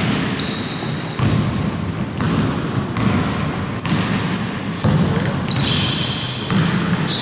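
Basketball game sounds: a ball bouncing on the court, about one bounce a second, with short high squeaks.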